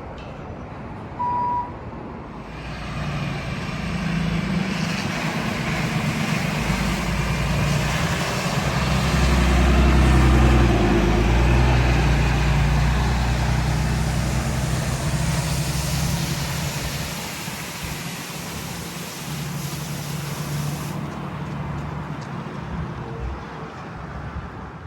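Detroit DD8 turbo-diesel engine of a Freightliner M2-106 water truck running as the truck drives by, growing louder to a peak midway and then fading. A short single beep sounds about a second in.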